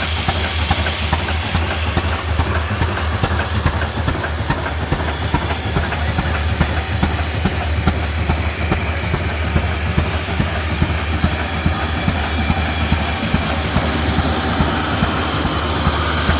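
Old diesel engine running steadily at an even pace.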